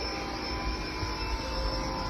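Steady machine noise: a motor running without a break, with a hiss, a low rumble and a faint high steady whine.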